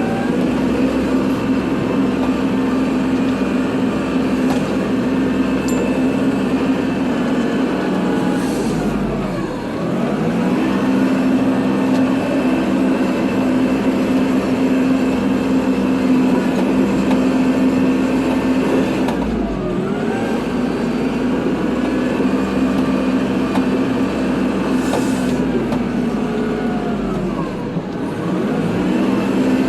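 Kubota tractor's diesel engine running steadily under load while plowing snow. Three times its pitch sags and then climbs back up.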